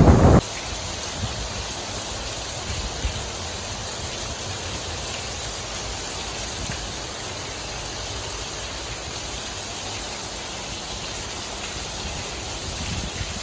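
Steady, even hiss of a heavy rain downpour. A burst of wind buffeting the microphone cuts off abruptly in the first half-second.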